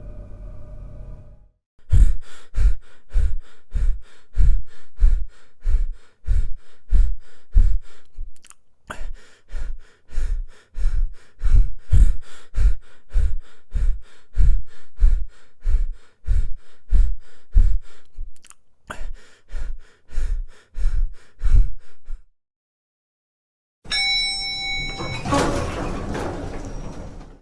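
Evenly paced heavy thuds, about two a second, running for some twenty seconds after a ringing tone fades out. After a short silence near the end, a creaking, grinding mechanical sound with high squealing tones begins.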